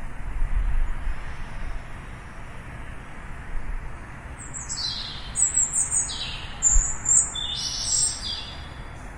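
Small birds chirping: a run of short, high calls, several sweeping down in pitch, begins about four seconds in. Beneath them is a steady background hiss, with a low rumble in the first couple of seconds.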